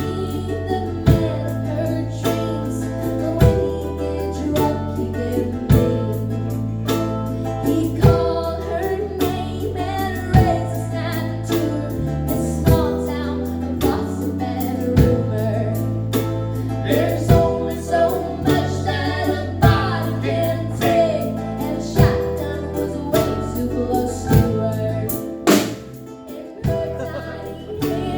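Live band music: a female lead vocal over the band, with sustained bass notes and a steady beat about once a second.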